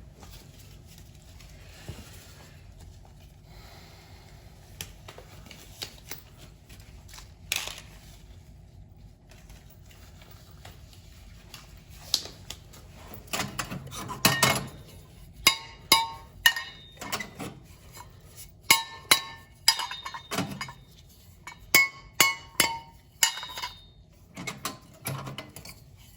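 Metal clinking and clanking as tools and boiler parts are handled: scattered clicks at first, then from about halfway a quick run of sharp metallic clinks, each with a short ring.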